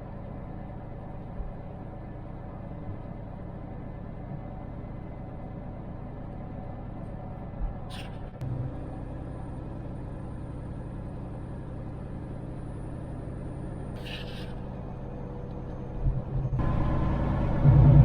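Semi truck's diesel engine running steadily, heard from inside the cab, with two short hisses partway through; the running sound grows louder near the end.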